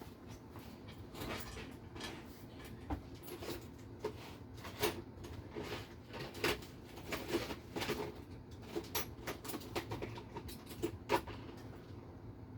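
Irregular scraping and clicking of a hand tool working slightly-too-tight holes in a part to open them up a little.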